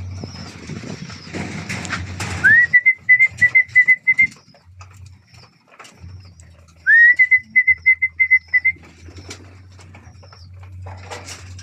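Pigeon-calling whistle blown twice, each blast a rising note that breaks into a quick warble for about a second and a half, calling the pigeons in to feed. Pigeons' wings flap and clatter around it.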